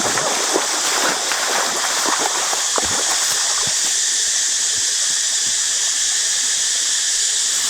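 Food sizzling in hot oil in a pan: a steady hiss with a dense spatter of crackles and pops over the first three seconds that then thin out.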